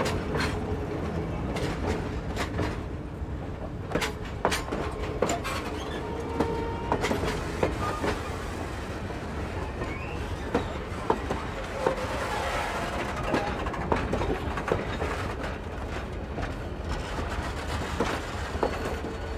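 Excursion train rolling by: wheels clicking and knocking irregularly over rail joints above a steady low rumble, with a few brief wheel squeals.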